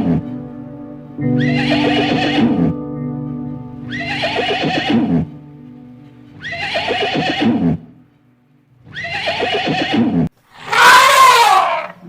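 Horse whinnying, the same call repeated about every two and a half seconds over background music. Near the end a different, louder animal cry rises and falls in pitch.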